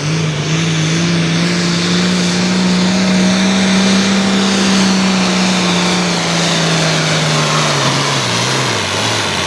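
Altered farm pulling tractor's turbocharged diesel engine at full power, dragging the weight sled. It runs loud and steady as its pitch climbs and holds, then drops off near the end as the tractor bogs down and stops.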